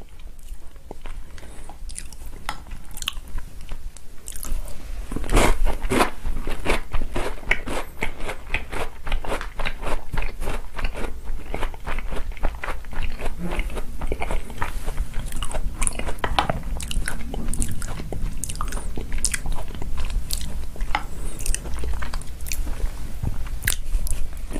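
Close-miked chewing and crunching of chocolate cookies soaked in chocolate milk. The crunching is fairly quiet at first, then becomes a dense run of crisp crunches from about five seconds in.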